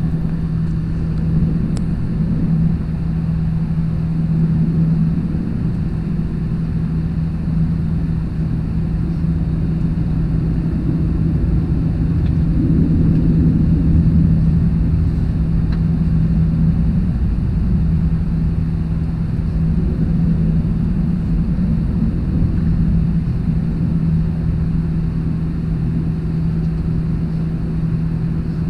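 Airbus A321-200 cabin: a steady drone of jet engines and rushing air heard inside the fuselage, a constant low rumble carrying one held hum.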